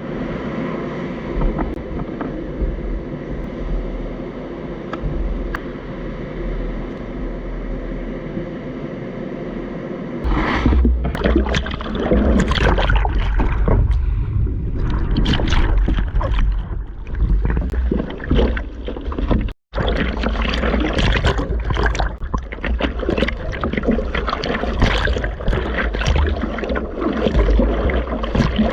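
A steady hum for about the first ten seconds. It then gives way to wind buffeting the microphone over splashing sea water, with a brief dropout about two-thirds of the way through.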